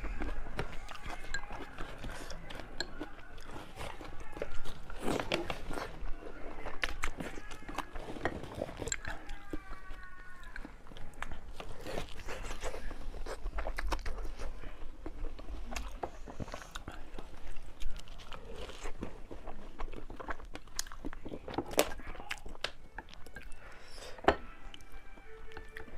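Close-miked eating: a person chewing and biting food, with many short, sharp, irregular mouth clicks and bites.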